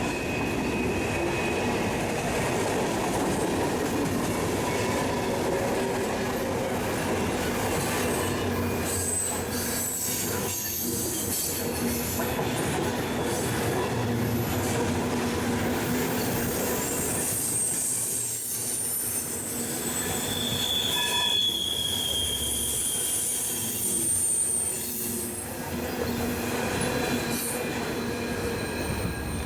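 Railroad cars rolling past with a steady rumble. Their steel wheels squeal in high, thin tones that come and go, loudest from about the middle to near the end.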